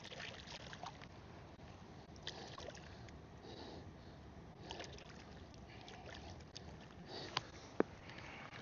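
Faint water sloshing and trickling as a fish is handled at the water's edge, with scattered small ticks and two sharp knocks close together near the end.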